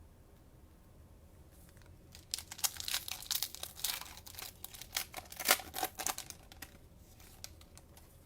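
Cellophane wrapper of a trading-card cello pack being torn open and crinkled, a dense crackling for about four seconds with a few stray crinkles after.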